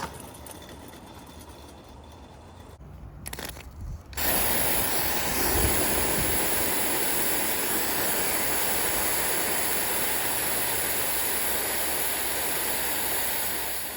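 Live steam model locomotive (Accucraft Sabrina) hissing steam, softly at first, then about four seconds in a sudden switch to a loud, steady hiss that lasts to the end.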